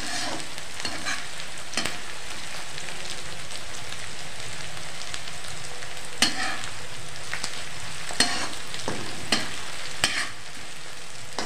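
Chopped onion, ginger and green chillies sizzling steadily in hot oil in a metal kadai, with a flat metal spatula scraping and knocking against the pan every few seconds as they are stirred.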